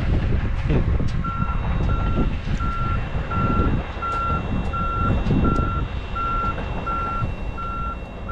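A vehicle's backup alarm beeping steadily at a little under two beeps a second, starting about a second in, over the low rumble of truck engines.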